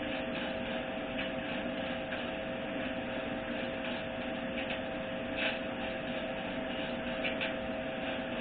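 Steel wire brush scrubbing old thread sealant off a fitting's threads, a steady scratchy rasp with a few sharper strokes, over a constant hum.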